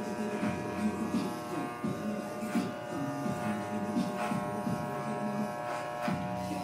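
Electric hair clippers running with a steady buzz, over background music.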